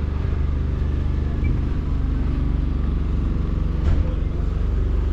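A vehicle engine running steadily with a low rumble. There is a single short knock near the end.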